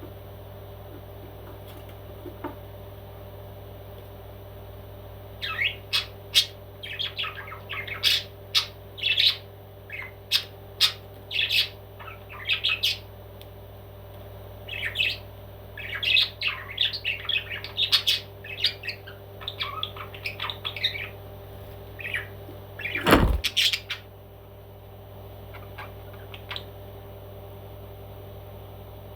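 Pet parrot squawking and chirping in two long runs of short, quick calls over a steady low hum, with one loud thump about 23 seconds in.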